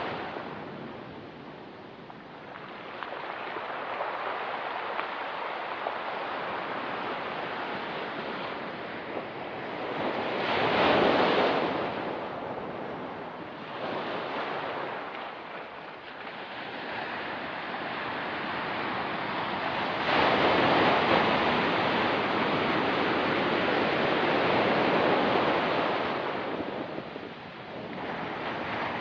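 Ocean waves breaking and washing up a rocky pebble beach in slow surges, with one loud wave about a third of the way in and a longer, louder wash in the second half.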